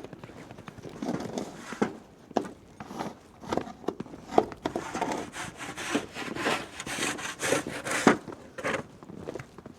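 Footsteps in fresh snow, an irregular run of soft crunches that thicken into steady rustling through the middle.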